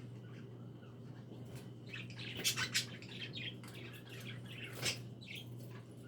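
A group of pet budgies (budgerigars) chirping and chattering, a stream of short high calls, with a few louder sharp calls a little after two seconds in and again near five seconds. A steady low hum runs underneath.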